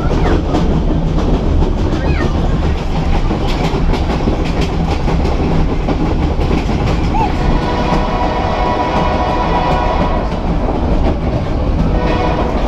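Rumble and clickety-clack of a White Pass & Yukon narrow-gauge passenger car running along the rails, heard from inside the car. About halfway through, a steady high tone joins the clatter.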